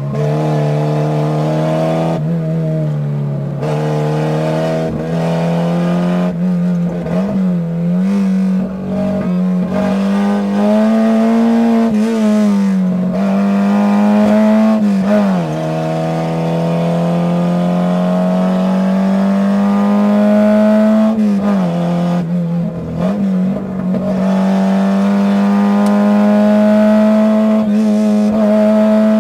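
Citroën AX rally car's engine, heard from inside the cabin, running hard at high revs on a special stage. Its pitch climbs steadily for long stretches and drops briefly several times as the car shifts or lifts for bends.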